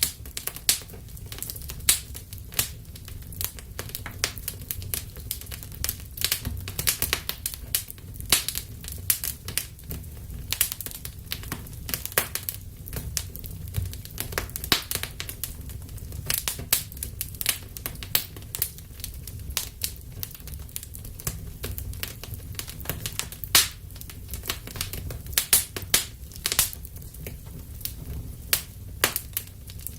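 Wood fire burning in a fireplace, crackling with frequent, irregular sharp pops and snaps over a steady low rumble.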